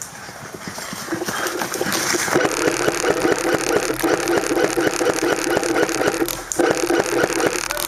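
Electric airsoft gun firing on full auto: a rapid, even chatter of shots over the gearbox motor's buzz, in a long burst starting about two seconds in, with one short break near the end.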